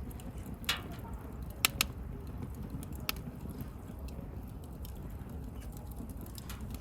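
Wood bonfire burning: a steady low rumble with a few sharp crackles and pops, the loudest two close together a little under two seconds in.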